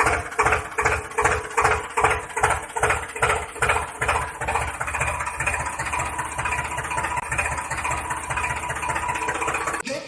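A small motor running with a regular pulsing beat of about three or four a second. The beat smooths into a steadier running sound about halfway through.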